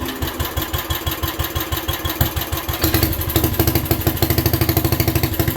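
A 7 hp Briggs & Stratton single-cylinder engine on a 1967 Unico lawn tractor fires up and runs with even, regular firing pulses. It gets louder and faster about three seconds in as it is throttled up.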